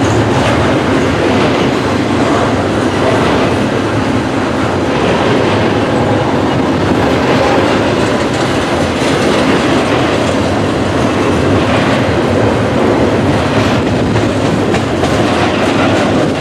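A train's cars rolling past close by, a steady loud run of steel wheels on the rails with the clack of wheels over rail joints.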